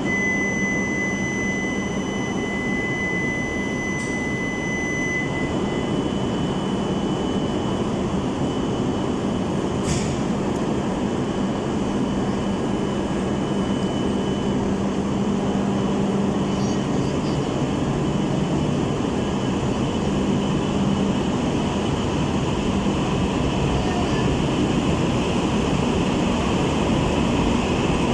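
Tohoku Shinkansen train running: a steady rumble and rush of noise with faint constant whine tones, one high tone fading out about five seconds in.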